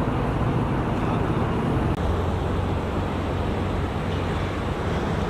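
Steady low rumble of car engine and vehicle noise, with a low hum that steadies about two seconds in.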